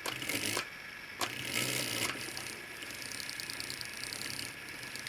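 Hornby Dublo class N2 locomotive's old DC motor and gears whirring faintly on a bench test, running in the reverse direction with a borrowed brush holder. It runs poorly at full power, not looking good, with a steady low hum, a fine fast buzz and a few small clicks near the start.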